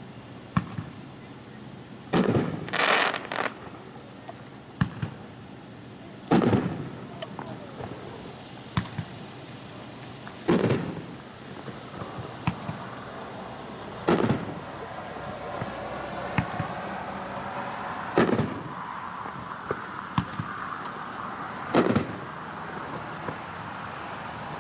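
Hot Shot 6 Banger 350-gram fireworks cake firing its six shots: six loud bangs about four seconds apart, each trailed by a short echo, with smaller pops in between. Each shell breaks with a big report.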